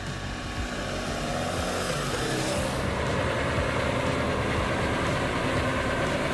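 Heavy truck engine running steadily, with road noise.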